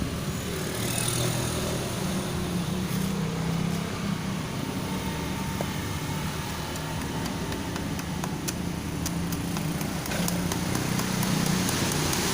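A motor engine running with a steady hum, with a few light clicks.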